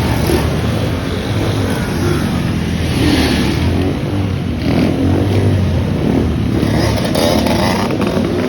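Motorcycle engine running loudly and being revved, its pitch rising and falling.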